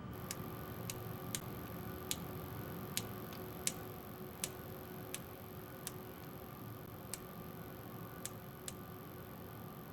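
Laboratory room tone: a steady equipment hum with a thin high whine, broken by light clicks that come irregularly, about one every half second to a second.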